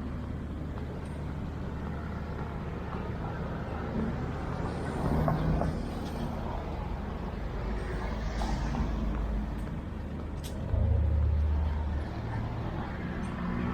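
Street traffic passing: engines running with a steady low rumble. A short hiss comes about eight seconds in, and a louder vehicle goes by about eleven seconds in.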